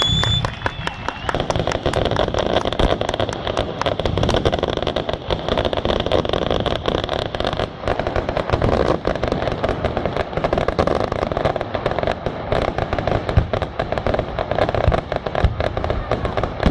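Aerial fireworks going off in a dense, rapid barrage of crackling bangs, with a brief whistle right at the start.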